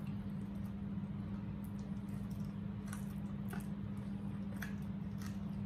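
People chewing and biting into fried chicken, with scattered short wet mouth clicks, over a steady low hum.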